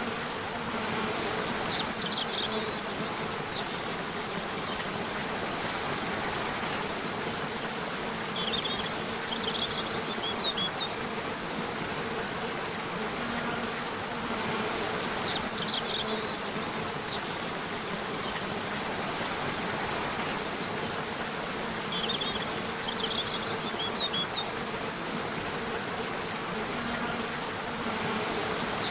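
Nature-sound recording: a steady rushing hiss under a droning insect buzz. Clusters of brief high chirps come every several seconds.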